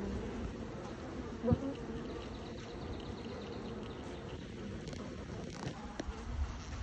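Steady buzzing hum of a honeybee swarm, many bees at once, with one light knock about one and a half seconds in.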